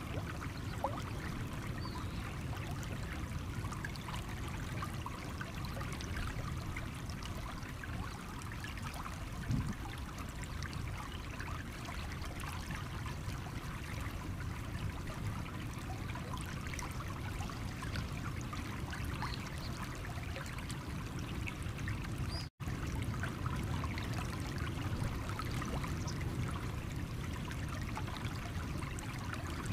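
Stream water running over stones, a steady trickling babble with small splashes, cutting out for an instant about three-quarters of the way through.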